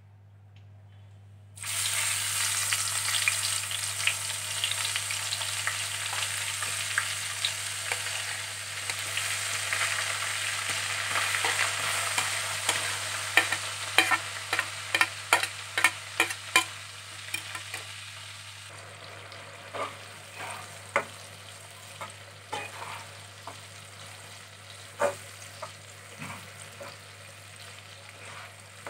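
Chopped vegetables hit hot oil in a nonstick wok and start sizzling loudly about a second and a half in. The sizzle slowly dies down as the mixture cooks. Through it come sharp clicks and scrapes of a spatula and utensils against the pan, many of them in a run just past the middle.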